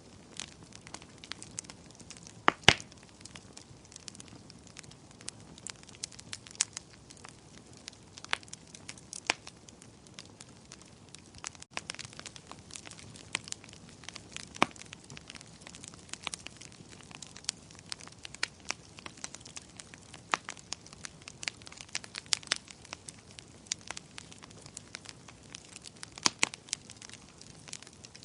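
Wood fire crackling steadily: a constant scatter of small snaps and pops over a soft hiss, with a few louder sharp pops, the loudest about two and a half seconds in.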